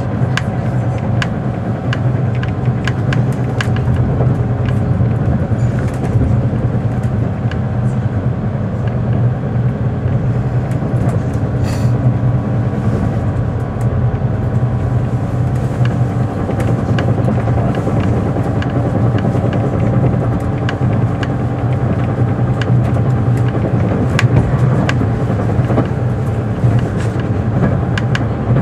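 Interior running noise of a 583-series electric sleeper train in motion: a steady low rumble of wheels on rail, with frequent small clicks and rattles.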